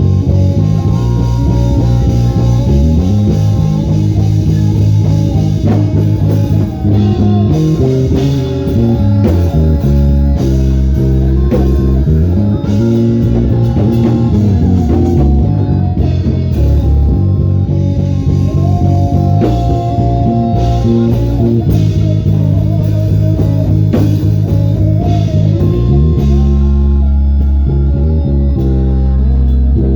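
Instrumental band music with a prominent electric bass guitar playing a busy melodic line with sliding notes, over guitar and light percussion.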